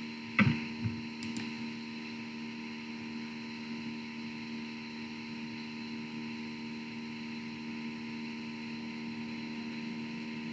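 Steady electrical hum and hiss from the church's sound system, several fixed tones held without change, with two short knocks in the first second.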